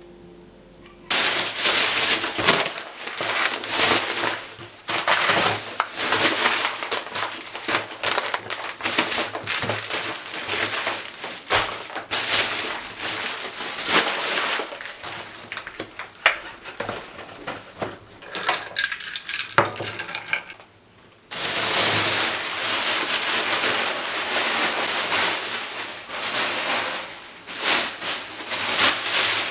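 Household kitchen clatter: dishes, glassware and cutlery being handled, with repeated clinks and knocks. About two-thirds of the way in it dips briefly, then a steadier stretch of noise follows.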